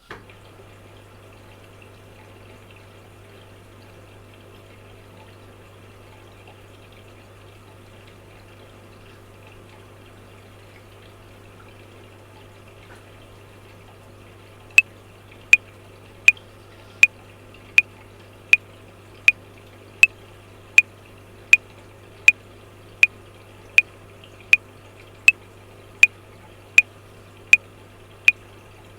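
Washing machine running with a steady hum and water sloshing. From about halfway through, a metronome clicks at 80 bpm, a sharp tick about every three-quarters of a second, louder than the machine.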